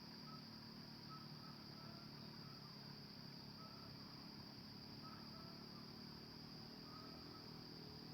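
Faint steady high-pitched insect drone, with scattered short faint chirps of small birds over it.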